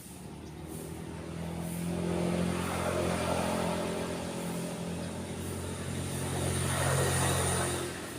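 A motor vehicle's engine running close by with a steady low hum, growing louder about two seconds in, swelling again near the end, then dropping away sharply.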